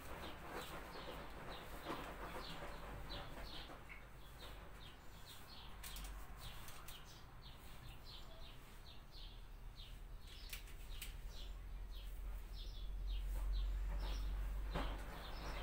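A small bird chirping in quick, short, high notes, several a second, over a low steady hum, with a few faint clicks.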